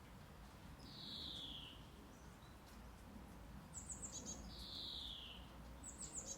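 Birds singing faintly over a low, steady rumble of background noise. There is a whistled note sliding downward, twice, about three and a half seconds apart, and quick clusters of high chirps near the middle and at the end.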